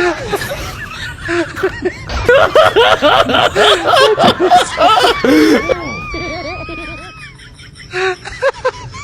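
Several people laughing hard, then a long, thin, high-pitched wavering tone about six seconds in.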